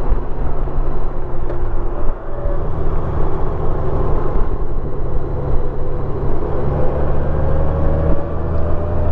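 Honda Gold Wing's flat-six engine running at riding speed under a steady rush of wind and road noise, its note shifting a couple of times.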